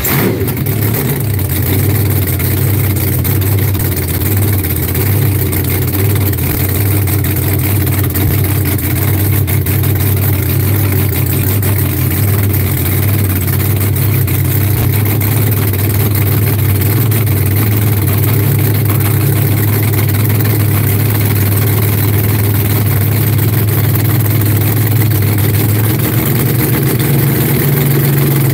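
A rat rod's supercharged engine idling, a loud steady drone, with a slight change in its note near the end.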